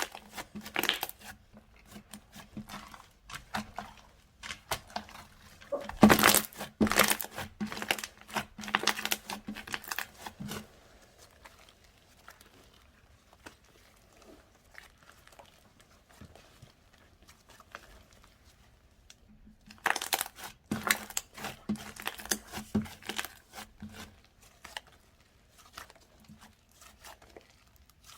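Slime being worked by hand, giving dense crackling and popping clicks in two long bursts, with a quieter stretch of faint clicks between them.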